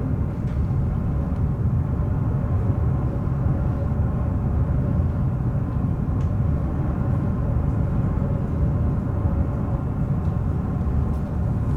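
Steady low rumble with a faint even hum, the machinery of a large car ferry underway heard from on board.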